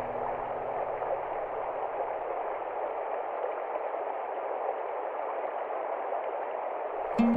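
Steady rush of flowing water, an even hiss with no distinct splashes. Plucked-string music comes in right at the end.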